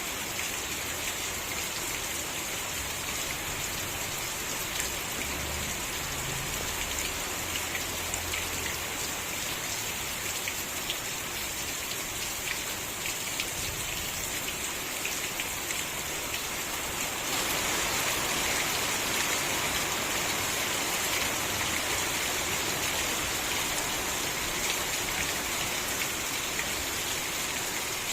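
Steady rain falling, with fine individual drop ticks through the hiss; it grows a little louder about two-thirds of the way through.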